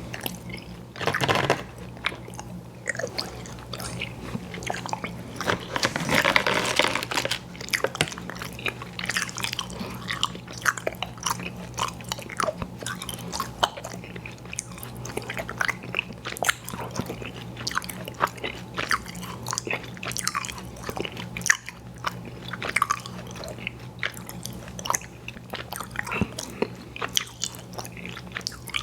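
Close-miked mouth sounds of someone chewing chewy fruit candy: a rapid run of wet clicks and smacks, with a louder, longer stretch of bite noise about six seconds in.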